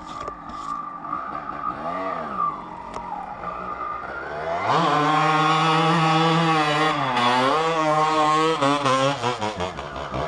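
250cc two-stroke dirt bike engine running at low revs, then revved hard from about halfway through, its pitch rising and falling with the throttle.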